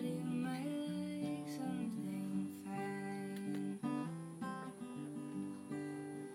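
Acoustic guitar music, plucked and strummed chords changing steadily.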